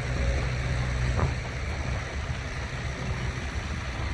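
Heavy diesel engine of construction machinery running steadily, a deep low rumble with a noisy hiss above it, easing slightly after about a second and a half.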